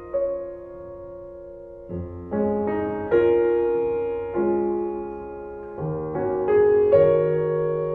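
Slow, gentle piano music: chords and single notes struck every half second to second and a half, each ringing on and fading.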